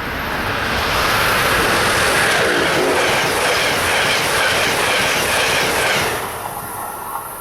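A train passing at speed, its wheels clicking in a steady rhythm over the rail joints. It is loud from about a second in and drops away sharply about six seconds in as the train clears.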